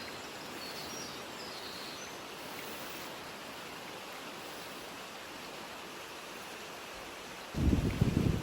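Steady rushing mountain outdoor ambience, with a few faint bird chirps in the first two seconds. Near the end a gust of wind hits the microphone with a sudden loud, low buffeting rumble.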